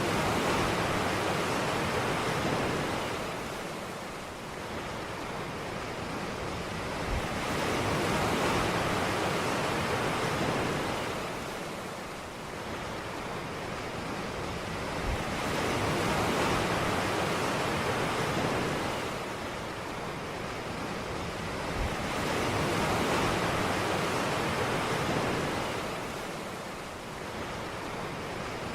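Waves breaking on a beach and washing back. The surf swells and fades in slow surges, about one every seven to eight seconds.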